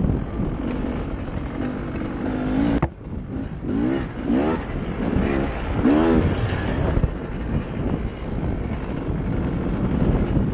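Dirt bike engine revving up and down in quick repeated swells as it is ridden, with a short sudden drop just under three seconds in, over steady wind rush.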